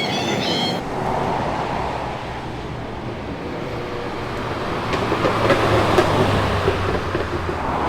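Car engine running as a car drives slowly in, a steady low rumble that grows louder in the second half, with a few small ticks and pops. Birds chirp briefly at the start.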